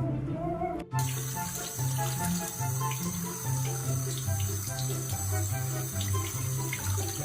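Running water from a tap, a steady hiss that starts abruptly about a second in, over background music with a stepping bass line.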